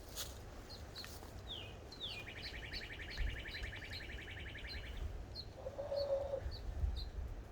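Songbirds calling: short high chip notes repeat about twice a second throughout. A rapid trill of about three seconds comes after two quick falling notes, and a short low steady note sounds near the end.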